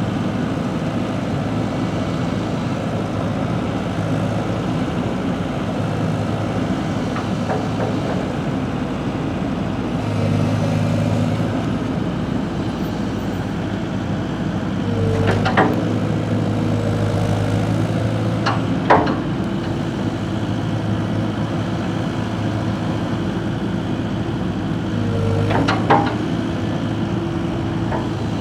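Heavy diesel engine running steadily, rising in load briefly a few times, with three short sharp sounds standing out over it.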